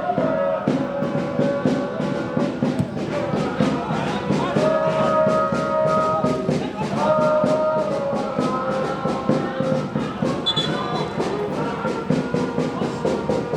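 Brass-band music: horns holding long notes over a steady, fast drumbeat.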